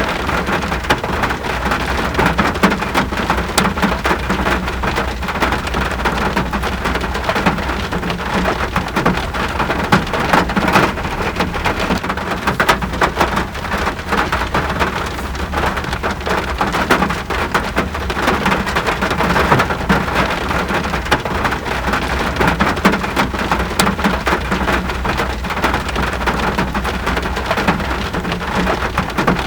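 Steady rain falling, a dense hiss of countless drops striking, over a constant low rumble.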